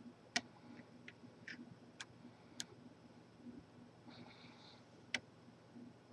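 Lock picks working the pins of a large Corbin padlock: scattered sharp metallic clicks and ticks, the loudest about half a second in and about five seconds in, with a brief soft scrape just before the second, over a faint steady hum.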